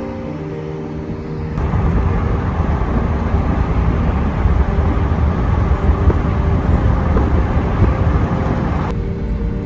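A car driving, with a loud low rumble of road and wind noise that comes in about a second and a half in and drops away near the end, over background music with held notes.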